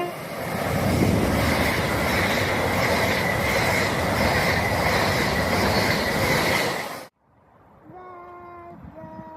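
Passenger train passing through the station at speed: a loud, steady rush of wheels on rail with a high-pitched whine running through it, which cuts off suddenly about seven seconds in. Near the end, a fainter steady pitched tone sounds twice.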